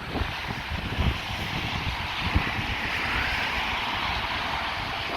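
Wind gusting across a phone's microphone, with an uneven buffeting rumble, over a steady hiss of wind and sea that swells a little midway.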